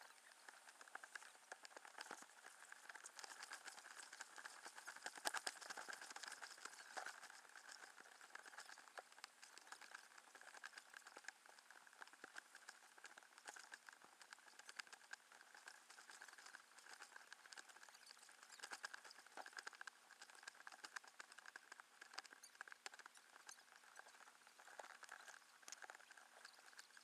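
Faint, dense, irregular pattering of water: small drips and splashes on the water and the inflatable kayak, a little louder a few seconds in.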